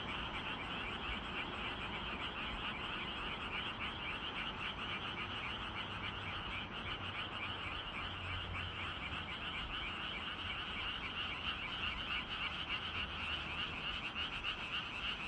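Chorus of many frogs calling together: a dense, unbroken mass of rapid, overlapping croaks.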